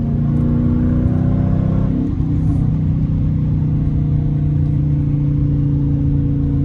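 Straight-piped 5.7-litre Hemi V8 of a Dodge Challenger R/T under way. The revs climb for about two seconds, break at a shift just after that, then hold at a steady cruise.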